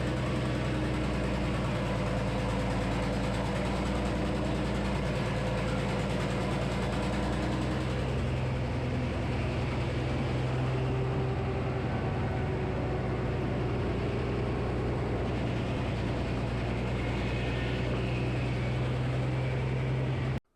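Frick sawmill running: the engine that powers the 48-inch circular saw gives a steady, even drone, with a slight shift in pitch about halfway through.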